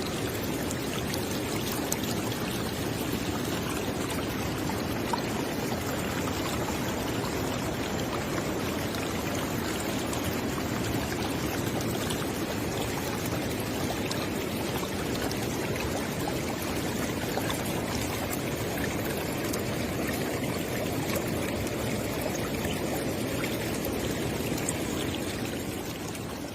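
River water flowing steadily, beginning to fade out near the end.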